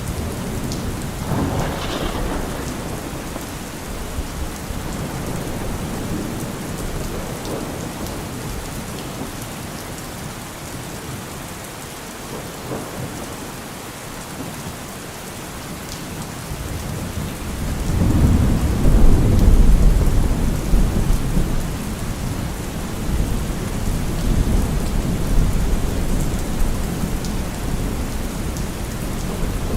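Steady rain falling during a thunderstorm. There is a short sharper peal of thunder about two seconds in. A little past the middle a loud, deep thunder rumble swells to the loudest point, then rolls on fainter under the rain.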